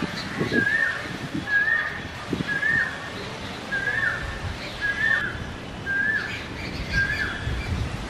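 A bird repeats one short, hooked whistled note about once a second, around nine times in a row, with fainter chirps from other birds behind it.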